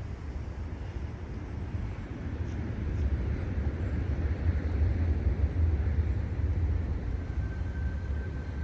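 Deep mechanical rumble of a large engine that builds to a peak about halfway through and then eases off. A faint steady whine joins near the end.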